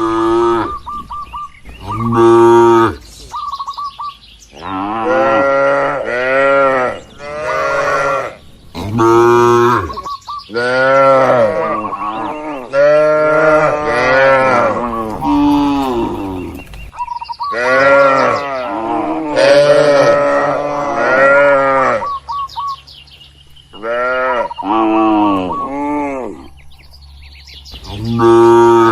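Cattle mooing over and over, each moo lasting a second or two with its pitch rising and then falling. Several of the calls overlap, as from more than one cow.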